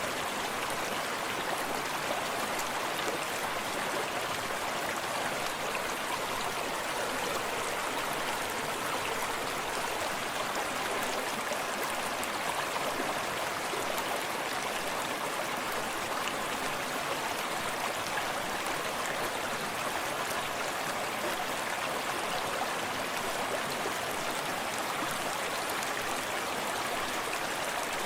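A small stream running steadily, water babbling and splashing over stones without a break.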